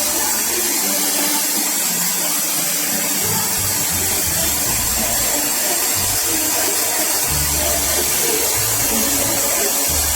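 Shark FlexStyle hair dryer-styler blowing air at a steady level, with faint music underneath.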